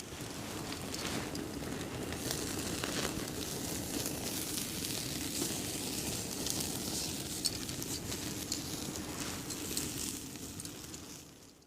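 Wood fire in a pop-up fire pit crackling: a steady hiss with frequent small crackles.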